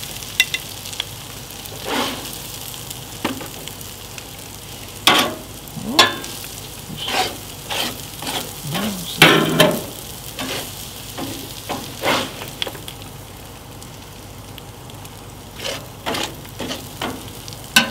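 Potatoes frying on the flat griddle plate of a gas grill, with a steady sizzle. Over it come irregular scrapes and clinks as metal tongs lift the potatoes off the hot plate and drop them onto a serving dish.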